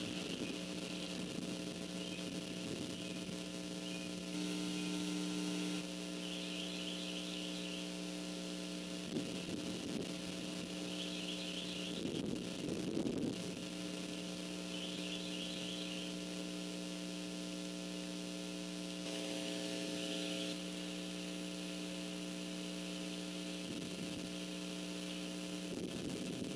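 Steady electrical hum from a nest camera's microphone, with wind gusting on the microphone a few times and short bursts of faint, high, rapid chirping now and then.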